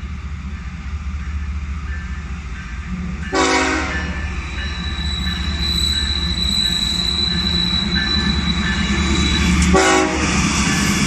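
Diesel freight locomotive running with a steady low rumble, sounding two short horn blasts, the first about three seconds in and a shorter one near the end. A thin high steady squeal runs through the middle.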